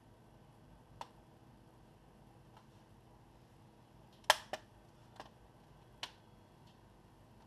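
Sharp plastic clicks and taps of laptop case parts being handled and fitted, about five in all: a faint one about a second in, the loudest just past four seconds with a quick second click right after, then two more.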